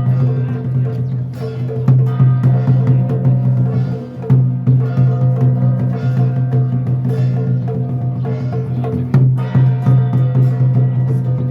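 Taiwanese temple ritual music: drum and wood-block strokes in a running rhythm over a steady, sustained low pitched tone.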